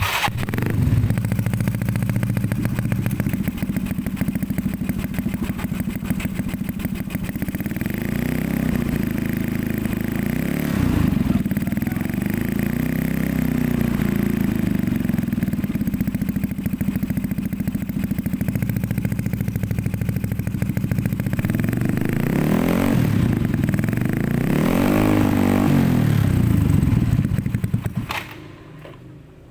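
Bored-up 200 cc Yamaha Mio scooter's single-cylinder engine running loud through a Tridente Ronin Katana free-flow racing exhaust, with several throttle blips revving up and falling back to idle. The sound stops near the end.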